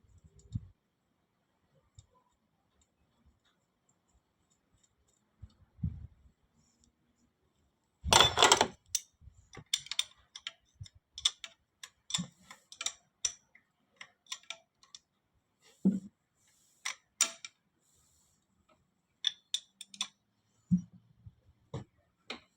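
Hand tools and small metal engine parts being handled: mostly quiet at first, a short loud clatter about eight seconds in, then a run of irregular metallic clicks and taps.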